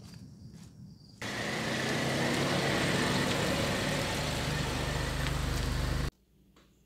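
Car engine running close by as a car rolls slowly past at ground level, its exhaust loud at close range. It comes in abruptly about a second in and cuts off abruptly near the end.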